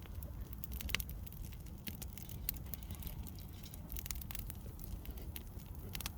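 Firewood fire crackling, with irregular sharp pops and snaps, the loudest about a second in, over a low steady rumble.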